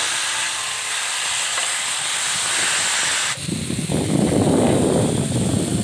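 Minced chicken frying in hot oil in an iron pan: a loud, steady, high hiss of sizzling that changes, a little over three seconds in, to a lower, coarser sizzle.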